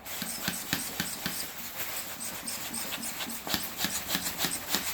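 Hand vacuum pump being worked to draw the air out of a plastic vegetable bag, a quick run of short strokes, several a second.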